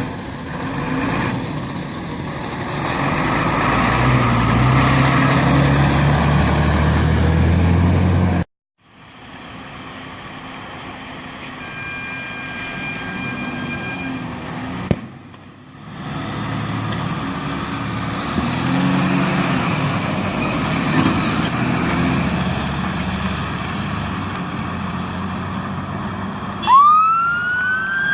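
Fire engines' diesel engines running and revving as the appliances pull out, split by two sudden cuts to silence between clips. Near the end a siren starts up with a rising wail.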